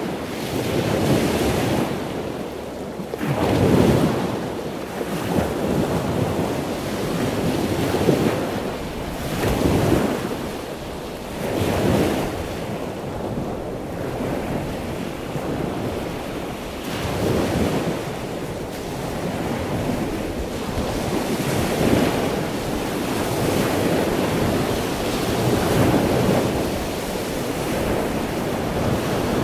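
Ocean waves washing, a steady rushing that swells and fades every few seconds.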